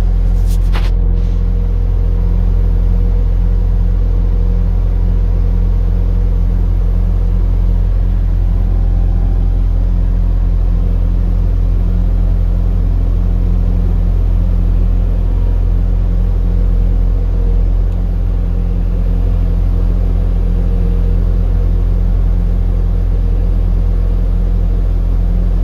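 Steady low rumble of a running vehicle engine, with a single short click about a second in.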